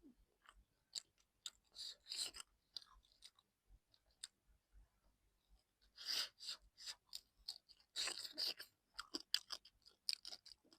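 A person chewing fish close to the microphone: crackly, crunchy mouth sounds in separate bursts with short pauses between them.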